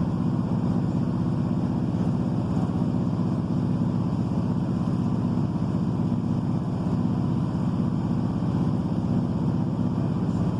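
Class 153 diesel railcar heard from inside, its Cummins diesel underfloor engine and running gear giving a steady low drone with a rumble of wheels on track as it runs along at an even speed.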